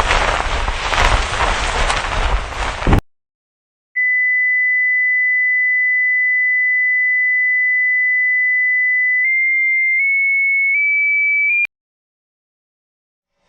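A steady rushing noise that cuts off abruptly about three seconds in. After a second of silence comes a pure electronic tone, high and steady, held for about five seconds, then rising in four small steps before it stops suddenly.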